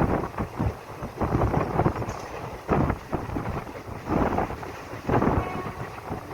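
Wind buffeting the microphone in uneven, rumbling gusts, as on board a moving train.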